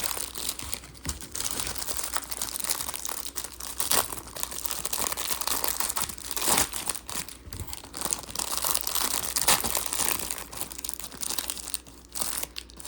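Plastic wrapper of a 1987 Topps baseball card rack pack crinkling and tearing as it is pulled open by hand, in irregular crackles.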